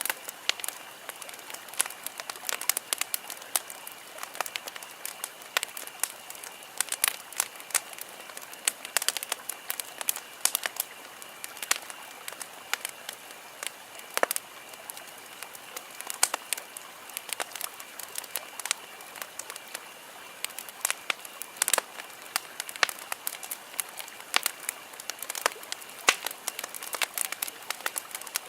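Wood campfire crackling: frequent irregular pops and snaps over a soft steady hiss of burning.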